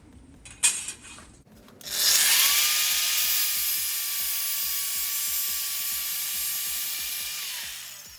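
Angle grinder spinning up about two seconds in and working sheet steel for about five seconds, a steady whine under a loud hiss, then winding down near the end. A single sharp knock comes before it starts.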